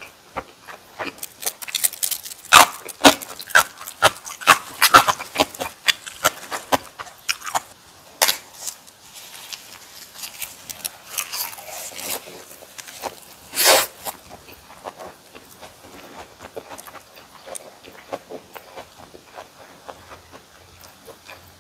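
Close-miked chewing of bossam and kimchi: dense, wet, crunchy mouth sounds for the first several seconds and one louder mouth sound about fourteen seconds in, then softer, sparser chewing.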